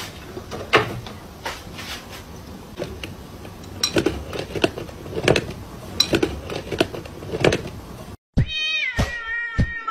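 A cat meowing repeatedly in short calls, about one a second, over a background hiss. Near the end it breaks off and music with a steady beat begins.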